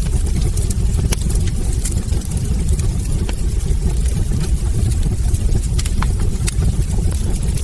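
Wood fire burning in a hearth: a steady low rumble of the flames with scattered sharp crackles and pops from the burning logs.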